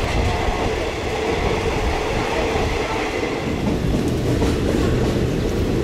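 Passenger train running along the line, heard from an open carriage window: a steady, unbroken noise of wheels on rails and the moving carriage.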